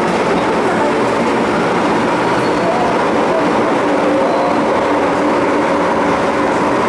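MTR Island Line M-Train running on the line, a steady loud rumble of wheels and running gear with a faint motor whine.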